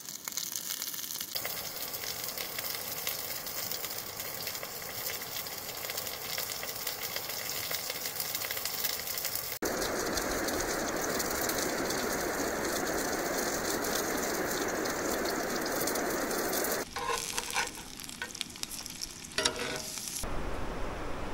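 Food frying in a hot pan, a steady sizzle that jumps louder about halfway through. Near the end the sizzle thins out and a few knocks come through.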